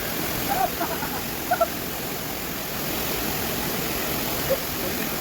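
Waterfall, rushing water as a steady, loud hiss with no change, with a few faint short sounds about a second in.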